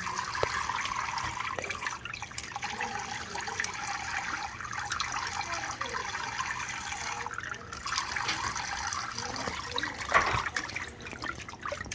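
Water running steadily from a kitchen tap into a sink as choy sum is rinsed under it, with scattered light knocks.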